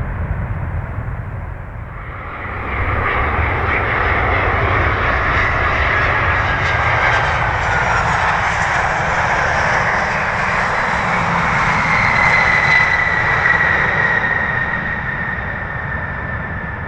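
Boeing 737-800 jet airliner landing close by, its engines running with a loud rushing noise and a high whine that slowly falls in pitch. The sound is loudest past the middle and fades near the end. In the first couple of seconds there is a lower rumble, then the sound jumps up about 3 s in.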